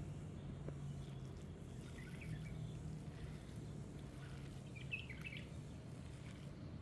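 Faint bird chirps, a short cluster about two seconds in and a livelier one around five seconds, over a low steady hum.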